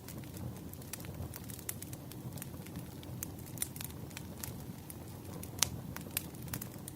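Wood fire crackling: irregular sharp pops and snaps over a low steady rumble of the burning logs, with one louder pop a little over halfway through.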